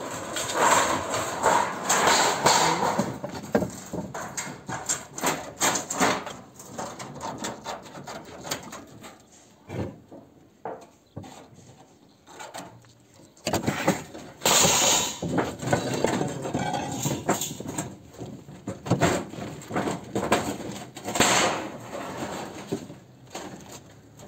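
Irregular knocking, clattering and scraping from hand work on a building site as parts of a fireplace chimney are handled and fitted. The strikes come in uneven bunches, with a quieter stretch about halfway through.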